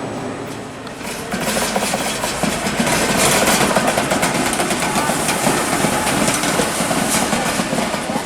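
A train running on rails, a steady rumble with dense rattling and clatter that grows louder about a second in.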